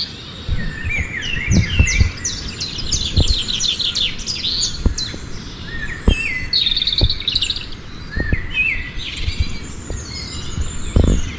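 Many small birds chirping and trilling at once, a dense overlapping chorus of short calls, with scattered dull low thumps.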